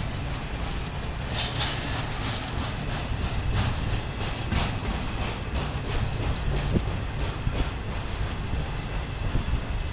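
CSX intermodal freight train rolling past: a steady low rumble with irregular clicks and clacks of wheels over the rail joints.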